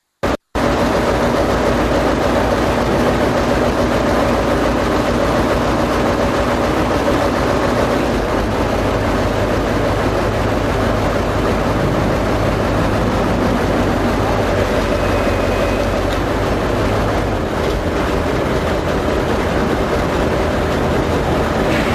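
A large engine running steadily, a continuous low machine hum under a loud rushing noise, starting abruptly about half a second in.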